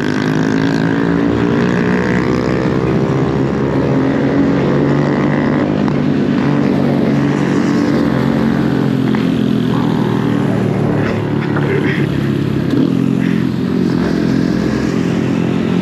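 Mini bike's small engine running while riding at a fairly steady speed, its note drifting slightly up and down in pitch, with rushing noise over it.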